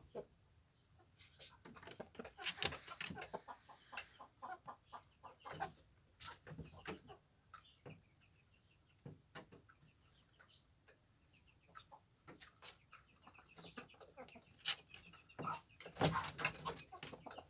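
Chickens clucking and calling, with many short sharp taps scattered through, busiest about two seconds in and again near the end.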